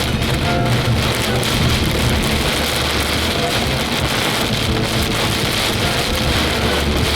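Heavy rain falling steadily on a moving car, a dense even patter over the low steady rumble of the car on the road.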